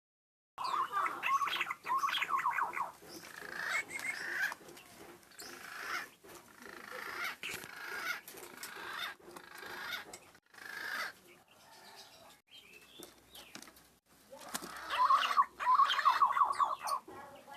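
Green pigeon (punai) lure calls: bouts of warbling, wavering whistled notes, loudest in the first few seconds and again near the end, with softer calls in between.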